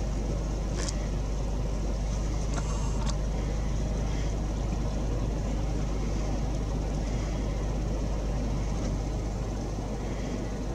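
Vehicle engine idling with a steady low hum. A couple of brief faint clicks come about a second in and again around three seconds in.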